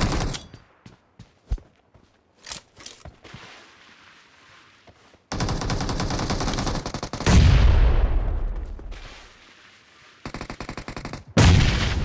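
Video-game automatic gunfire: a few scattered single shots, then long bursts of rapid fire about halfway through and again near the end, with a deep boom dying away over a second or two between them.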